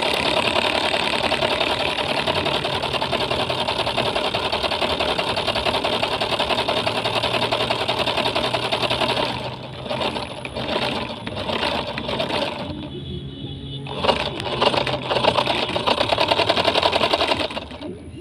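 Tractor engine running with a fast, even mechanical clatter. It holds steady for about nine seconds, then turns uneven, drops off briefly around thirteen seconds, comes back, and falls away near the end.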